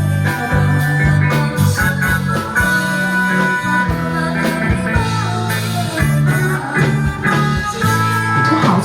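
Live band music: a sustained melody line over steady bass notes and a regular drum beat, with little or no singing.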